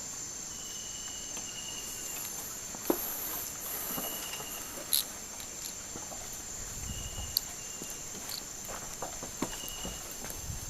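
Rainforest insects droning steadily at a high pitch, with a short call repeating every second or two. Scattered sharp knocks and taps sound over it, the loudest about three and five seconds in.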